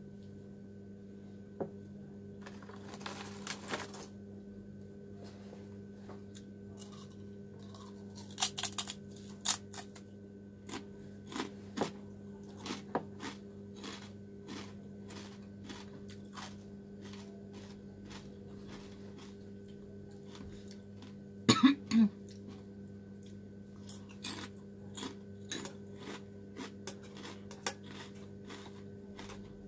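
Close-up mouth sounds of eating instant noodles: slurping and chewing, with scattered small clicks of metal chopsticks against the bowl. About two-thirds of the way through come two louder sharp mouth sounds close together, and a steady low hum runs underneath.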